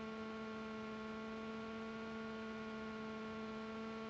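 Steady electrical hum in the aircraft's intercom and radio audio: a few fixed tones over a faint hiss, with no change.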